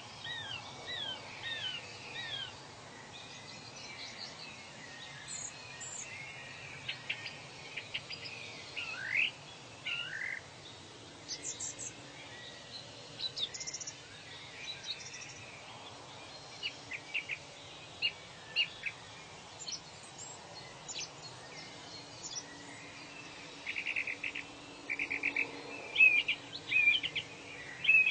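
Several birds calling over a steady background hiss: a run of short falling whistles at the start, a single rising whistle about nine seconds in, scattered chirps, and a burst of rapid repeated chirps near the end.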